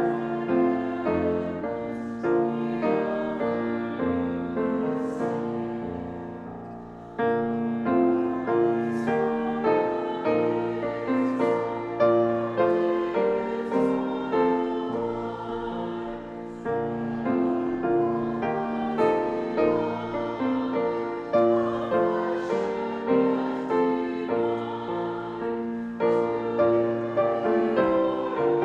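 A choir singing a slow sacred piece with piano accompaniment, in sustained chords that change every second or so. The music dies down about six seconds in, then the singing comes back in with the next phrase.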